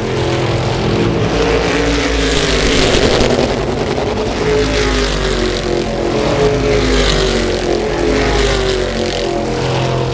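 Stock car racing engines running on the track, several cars at once, their pitches rising and falling as they pass, with louder passes about two and seven seconds in.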